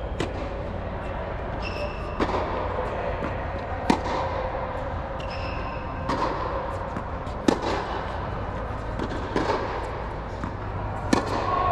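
Tennis balls struck with rackets in a drill: sharp pops about every one and a half to two seconds, seven in all, over a steady low hum.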